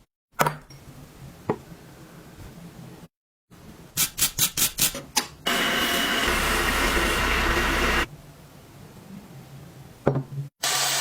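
Workshop restoration sounds in short edited snippets: a quick run of about half a dozen taps, then a loud, steady power tool running for about two and a half seconds, as in rust removal on a vintage hand-crank grinder.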